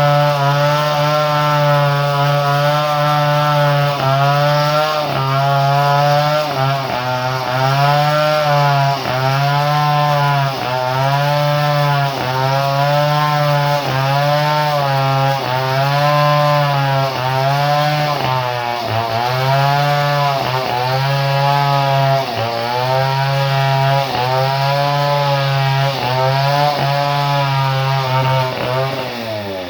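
Two-stroke chainsaw engine running at high speed, its pitch dipping briefly and recovering about once a second.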